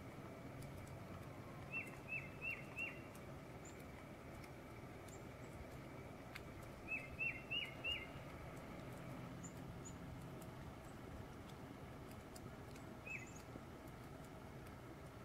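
A small songbird calling over a steady outdoor hiss: a quick run of four short down-slurred notes about two seconds in, the same run again about seven seconds in, and a single note near the end, with a few faint high chirps in between.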